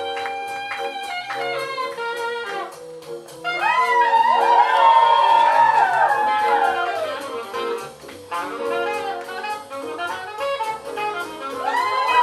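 Instrumental jazz with saxophones and brass: held horn chords, then the horns come in louder about three and a half seconds in with sliding, bending notes, ease off around eight seconds, and swell again near the end.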